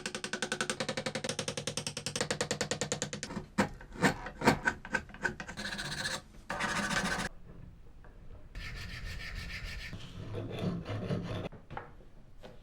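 Abrasive rubbing on wood, as in filing or rasping a wooden part. It starts as a fast, even run of strokes, then breaks into a few separate strokes and longer passes.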